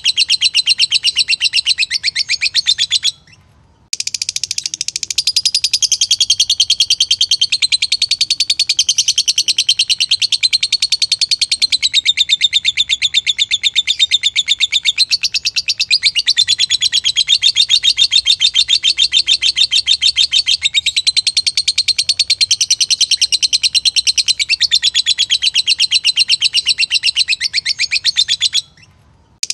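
Lovebird singing a long, rapid chattering trill whose pitch wavers up and down. It breaks off for under a second about three seconds in, then runs on unbroken for some twenty-five seconds before stopping shortly before the end.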